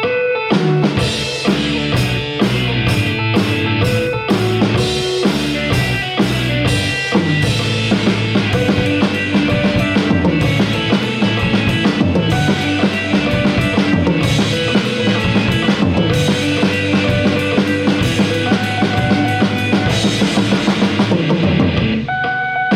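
Rock drum kit played through a song, kick drum and snare hitting in a steady beat with cymbals, over pitched guitar or bass parts; the playing drops out briefly near the end.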